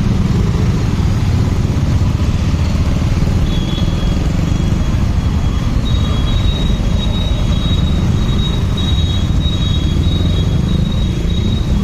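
Motorcycle on the move: a steady low rumble of engine and wind, with a faint high-pitched intermittent whine joining about three seconds in.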